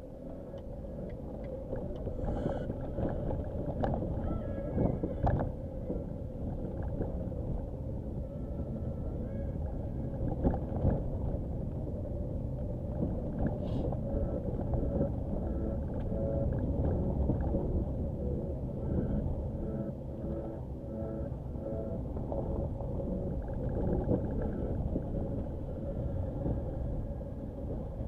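Nissan Qashqai driving over a rough dirt track: a steady rumble with a constant drone, broken by occasional sharp knocks.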